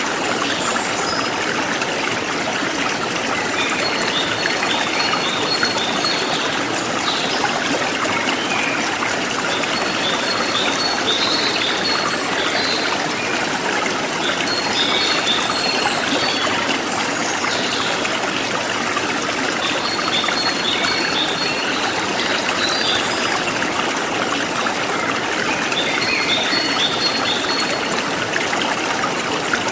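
Forest stream flowing steadily, with birds chirping in short high phrases that recur about every five or six seconds.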